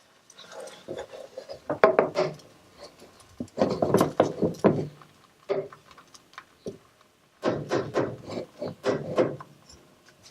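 Kitchen utensil scraping and rubbing against cookware in three bursts of quick strokes, a short one about two seconds in and longer ones around four and eight seconds in.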